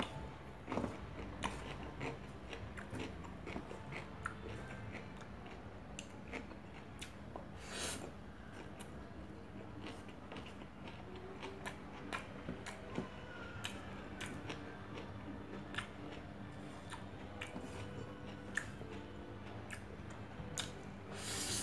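Close-up mouth sounds of a person chewing a mouthful of rice and chicken: many small wet clicks and smacks at an uneven pace, with a brief louder rustle about eight seconds in and again near the end. A steady low hum runs underneath.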